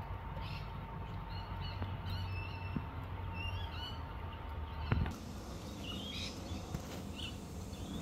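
Birds chirping: many short, high calls scattered throughout, over a steady low rumble, with a single knock about five seconds in.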